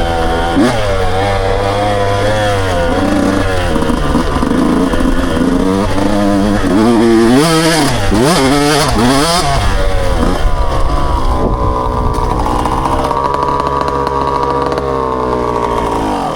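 Dirt bike engine running under way, its pitch rising and falling as the throttle is worked, with several quick revs up and down about halfway through, then holding steady at higher revs before dropping away suddenly at the end.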